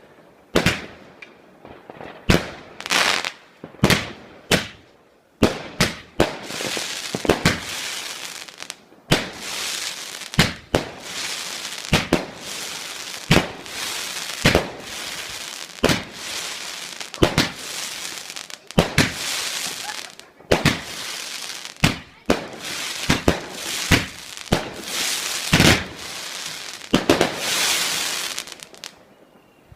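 A large single-fuse multi-shot firework cake firing its shots in sequence: sharp bangs about one or two a second, spaced out at first and then coming faster with a continuous crackling hiss between them from about six seconds in, stopping abruptly shortly before the end.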